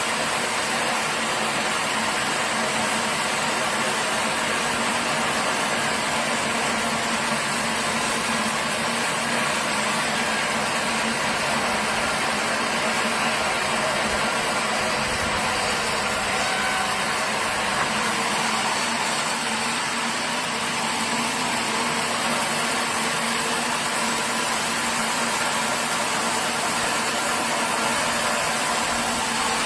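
Sawmill machinery running steadily: a dense, even mechanical noise with a faint constant hum, unchanging throughout.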